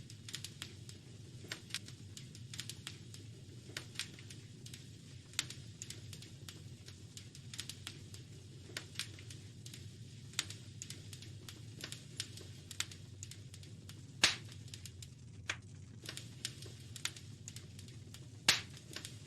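Wood fire crackling in a fireplace: irregular sharp pops and snaps over a low steady rumble of the flames, with two louder pops near the end.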